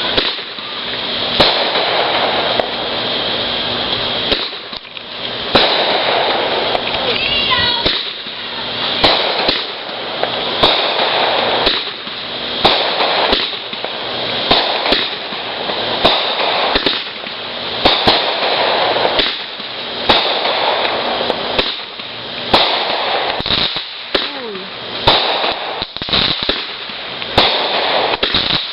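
Consumer fireworks going off one after another: sharp bangs every second or two with crackling between them, and a brief whistle about eight seconds in.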